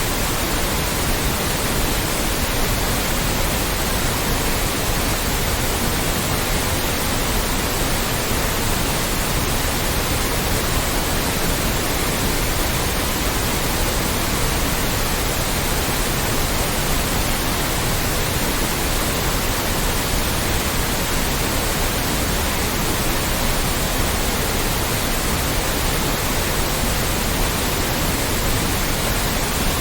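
Loud, steady white noise: an even hiss spread across all pitches, with no change in loudness.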